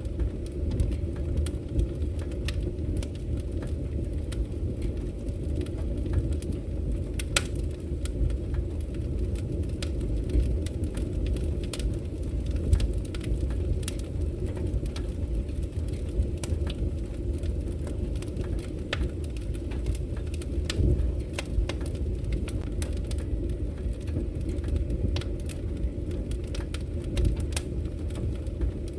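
Wood fire crackling in a fireplace: a steady low rumble with frequent, irregular sharp pops and snaps, a couple of them louder.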